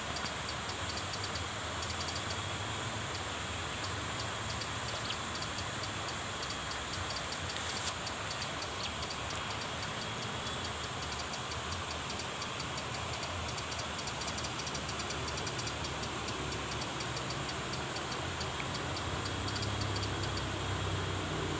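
Insects calling: a fast, even ticking pulse high in pitch with a constant high whine above it, holding steady throughout.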